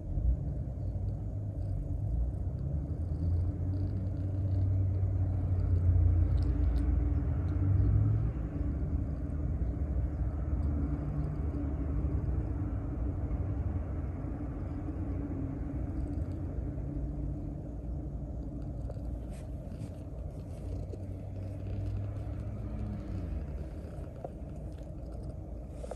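Maine Coon cat purring close up, a low continuous rumble that grows louder a few seconds in, then settles.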